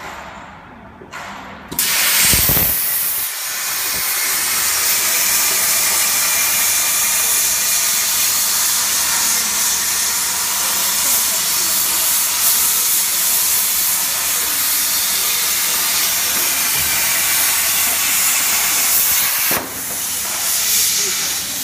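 A CNC cutting torch cutting steel plate with a loud, steady hiss, starting suddenly about two seconds in, with a brief dip near the end.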